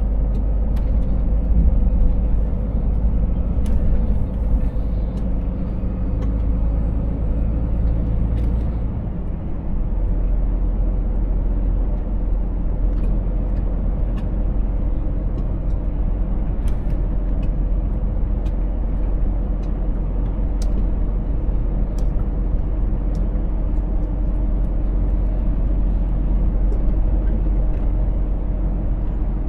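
Scania 500S truck running on the road, a steady low engine drone whose tone shifts about nine seconds in, with scattered small clicks over it.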